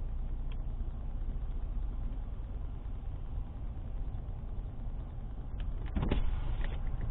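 Steady low engine and road rumble of a moving car, heard from inside the vehicle through a dashcam's microphone. A few short clicks and a brief louder noise come about six seconds in.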